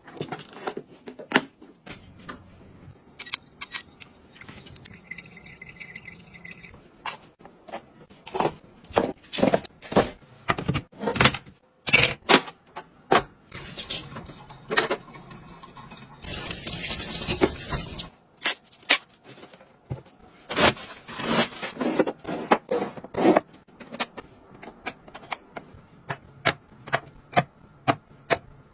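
Small objects being handled: an irregular run of sharp clicks, taps and knocks, with about two seconds of rushing noise a little past halfway.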